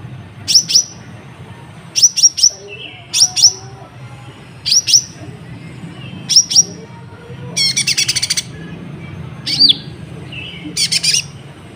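Kolibri ninja sunbird singing: loud, sharp high chirps in pairs, repeated about every second and a half, with a rapid rattling trill about eight seconds in. Its song is filled in with learned cabak iblis calls.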